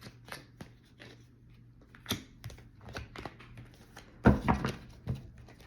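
Tarot cards being handled and laid down: scattered light taps and clicks, with a louder cluster of knocks about four seconds in.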